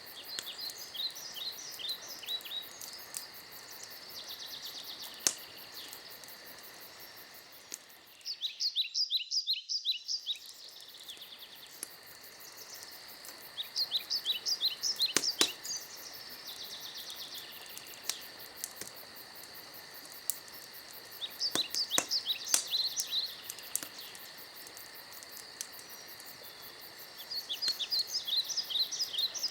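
Forest night ambience: steady insect chirring and hiss, with a bird repeating a short trill of quick falling notes every several seconds. A few sharp pops from a crackling campfire.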